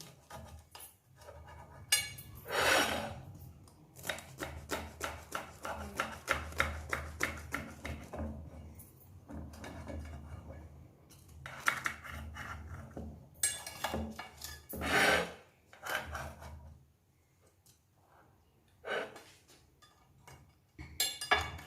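A crisp, freshly griddled corn-flour harcha being broken and handled on its serving plate, giving runs of quick crunching crackles with a few louder rasping scrapes, and a quieter pause late on.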